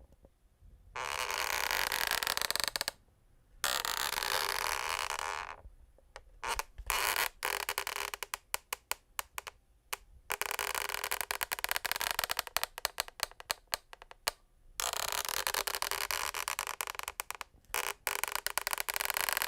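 Scraping on a wooden parquet floor in long strokes of one to four seconds, with stretches of quick clicking and ticking between them.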